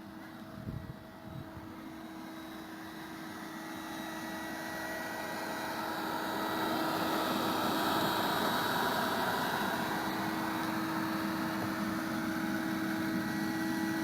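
A swarm of honeybees humming, with a steady droning pitch that swells louder over the first several seconds and then holds. A couple of low bumps come about a second in.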